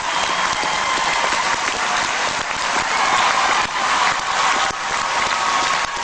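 Arena audience applauding, a dense steady clatter of many hands with faint shouts mixed in.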